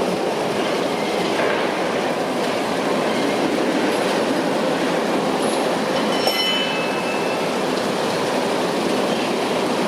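Heavy construction machinery working steadily on a foundation dig: a continuous metallic clattering rumble, with a brief high squeal about six seconds in.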